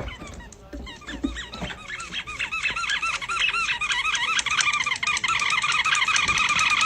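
A chorus of many small birds chirping rapidly and overlapping, growing steadily louder.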